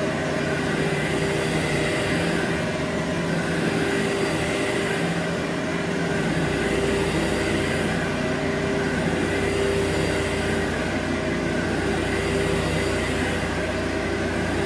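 Carpet-cleaning machine motor running steadily with a constant whine and hum, over an even hiss from a pressure washer. A deeper low hum comes in about six seconds in.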